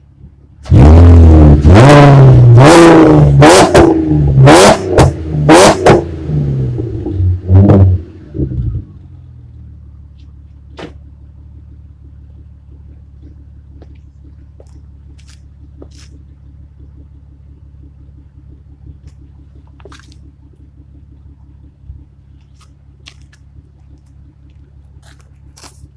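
Volkswagen Golf IV VR6 engine's exhaust, blipped hard from idle about seven times in quick succession, each rev rising and falling. After about nine seconds it settles to a steady low idle with a few faint clicks.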